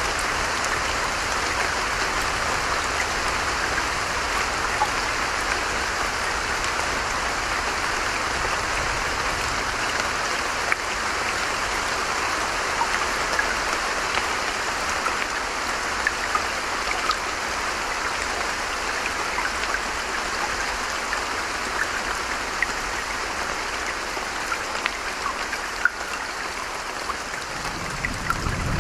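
Creek water running steadily, with light rain-like droplet ticks scattered through it. A low rumble swells in right at the end.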